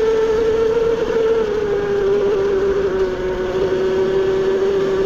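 Electric dirt bike's motor whining at a steady pitch while riding, easing slightly lower after about a second and a half.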